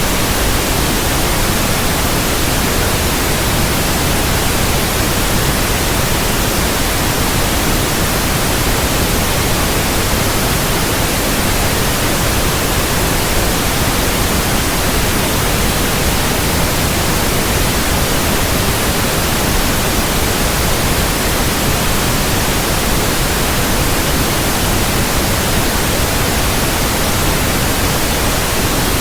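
Steady electronically generated white noise, an even hiss across the whole range that does not change.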